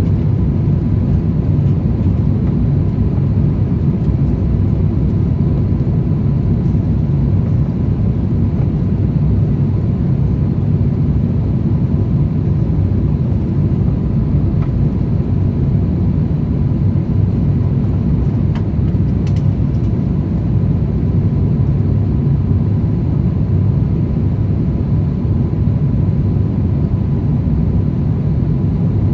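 Steady low rumble inside the cabin of an Airbus A350-1000 airliner in flight: engine and airflow noise, with a faint steady high tone.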